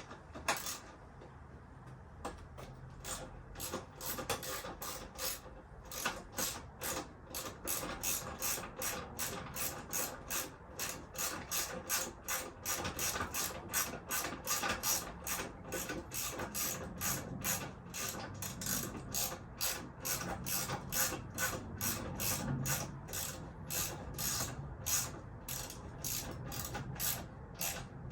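Hand ratchet wrench clicking in a steady, even rhythm of about three to four clicks a second as it is worked back and forth.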